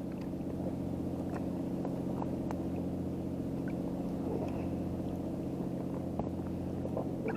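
An engine running steadily, a low even drone with a few faint clicks over it.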